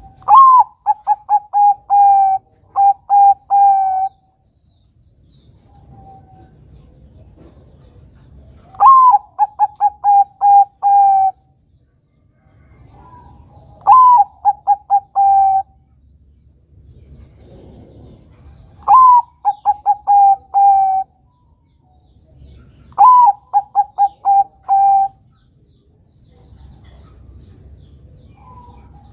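Bangkok-type zebra dove (perkutut) singing: five phrases, each an opening note that rises and falls, then a quick run of short coos, repeated every four to five seconds.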